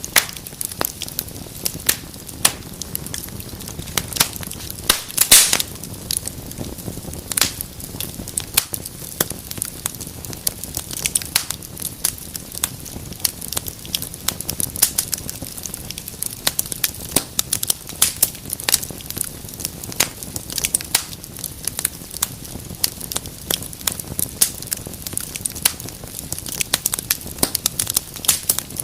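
Wood fire burning in a fireplace, crackling with dense, irregular sharp pops over a low steady rush of flame. A brief cluster of louder pops comes about five seconds in.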